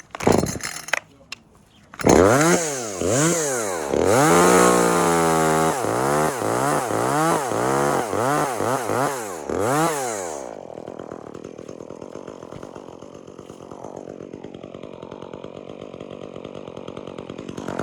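Two-stroke chainsaw starting up about two seconds in, revved up and let off again and again for about eight seconds while cutting dead birch wood, then dropping to a steady idle.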